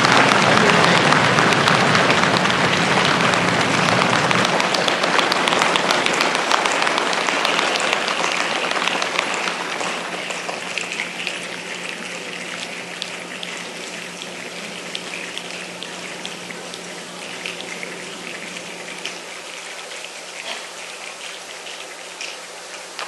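A crowd imitating a rainstorm with their hands and feet, winding down: a loud, dense patter with low thumping drops off about four seconds in, then thins to lighter pattering and sharp clicks that keep growing quieter.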